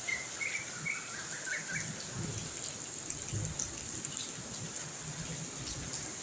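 Steady hiss of heavy rain, with a few short bird chirps in the first two seconds.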